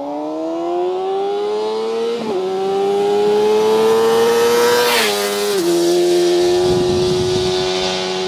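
Motorcycle engine accelerating hard through the gears, its pitch rising and dropping at each upshift, about two seconds in and again around five seconds, then holding a steady note.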